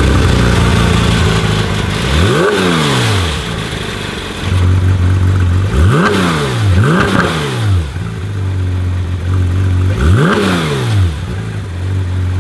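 Porsche 911 GT3's flat-six engine idling and free-revving while parked, with four sharp throttle blips that each climb and fall straight back to idle, two of them in quick succession.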